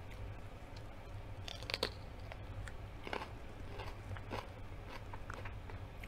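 Close-up crunching and chewing of a raw red pepper being bitten into: a few crisp, irregular crunches, the loudest about two seconds in.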